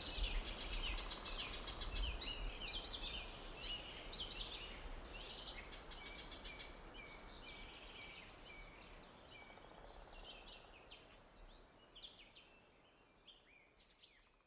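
Many small birds chirping and singing together in a forest, quick overlapping high chirps and trills over a steady low background hush. The whole chorus fades out gradually toward the end.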